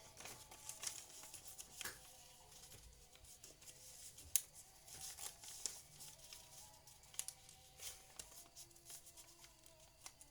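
A sheet of paper being unfolded and creased by hand for a paper airplane: faint rustling and crinkling with scattered crisp ticks, and one sharper snap about four seconds in.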